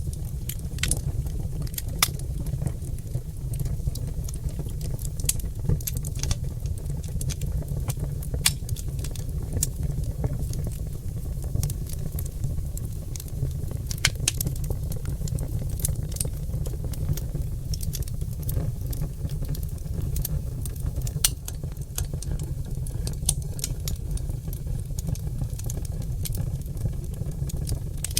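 Oak log fire crackling and popping: irregular sharp snaps scattered over a steady low rumble of the flames.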